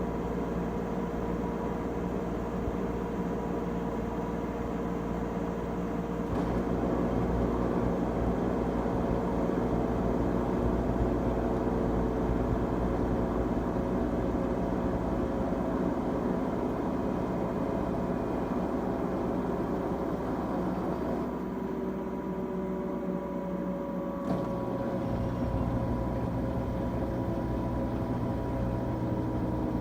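LG Tromm WD-CR101C front-loading washing machine running on its quick wash cycle: a steady machine whir with a few tones that slowly shift in pitch. It gets a little louder after about six seconds, and the low hum drops away for a few seconds past twenty seconds in before returning.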